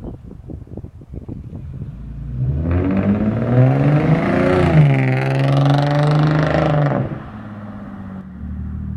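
Car engine revving: rough rumbling at first, then a loud run of revs that rise and fall in pitch for about four seconds before dropping back to a low idle.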